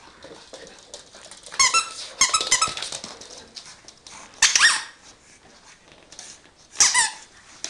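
Squeaky toy ball squeaking in quick bursts as a dog bites on it: a fast run of squeaks about one and a half seconds in, another run just after two seconds, then single squeaks near four and a half and near seven seconds.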